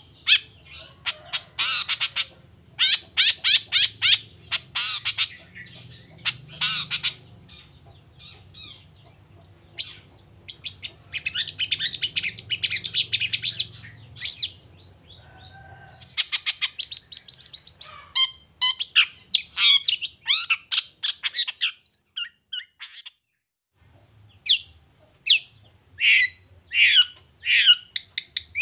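Long-tailed shrike (cendet) singing: fast runs of sharp chirps and harsh squawking notes, broken by a short silence near the end before it resumes, over a faint low hum.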